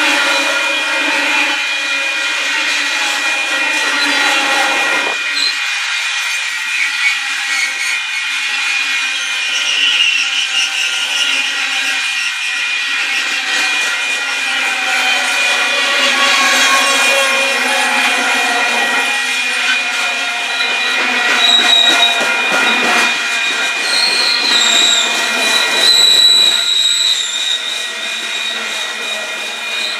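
Union Pacific freight train rolling past, its wheels squealing with many shifting high-pitched tones over a steady high ring. Sharper, higher squeals come about two-thirds of the way through.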